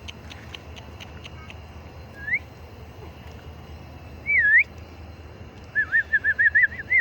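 Whistling: a few faint clicks at first, a short rising whistle, then a wavy one, then a fast warbling run of whistles near the end.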